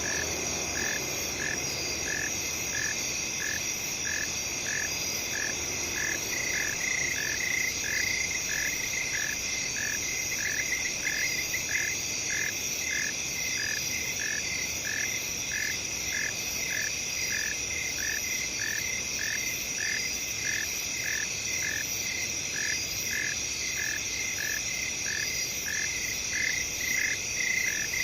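Night field ambience: a steady chorus of crickets and other insects, with one chirp repeating evenly a bit more than once a second.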